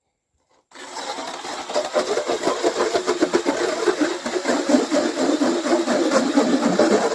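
StrikeMaster 8-inch electric ice auger starting up about a second in and running steadily, its motor humming as the bit cuts into lake ice.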